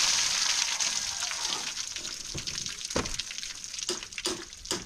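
Water rushing and splashing with a steady hiss that fades about halfway through, then a few sharp knocks.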